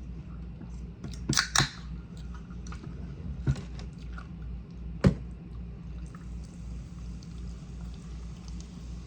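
Close-miked eating: chewing of a burrito bowl, with a few sharp clicks, a cluster about a second and a half in and single ones near three and a half and five seconds, over a steady low hum.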